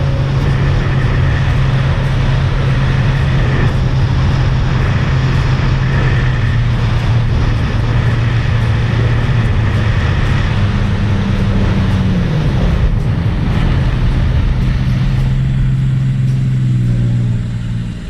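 Sea-Doo 300 jet ski's supercharged three-cylinder engine running steadily at cruising speed, with wind and water rushing past. The engine note dips briefly about two-thirds of the way in, then the sound falls away near the end.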